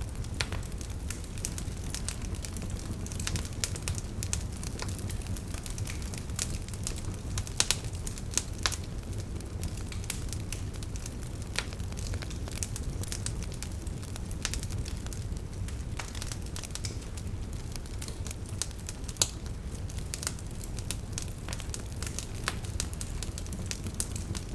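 Wood fire crackling: irregular sharp pops and snaps over a steady low rumble, with a few louder pops along the way.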